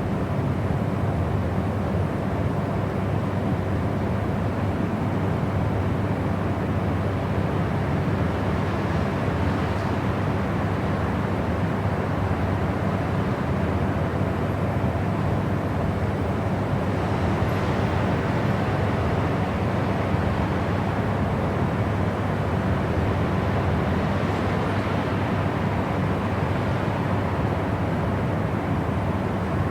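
Continuous white-noise track: a deep, steady rushing noise with a faint hum running through it, unchanging throughout.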